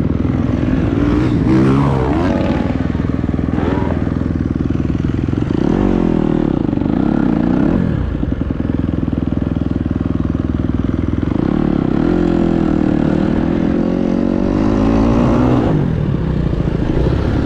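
Dirt bike engine being ridden hard, revving up and falling off repeatedly as the throttle is worked and the rider shifts, with a few long rising pulls.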